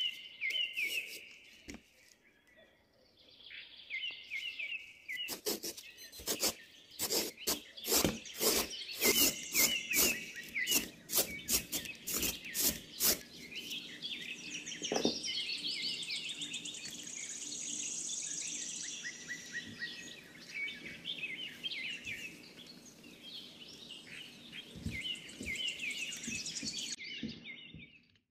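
Birds chirping and trilling, over a run of quick, regular scraping strokes, about two a second, as a bottle gourd is peeled and shredded by hand.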